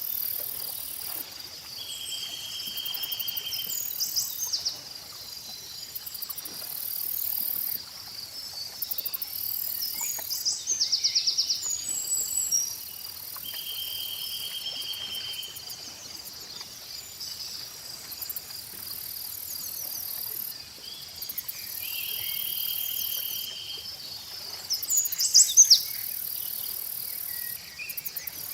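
Insects chirping steadily, with a high buzzing that switches on and off every few seconds, and a recurring buzzy trill. Birds chirp and trill throughout, with the loudest burst of calls near the end.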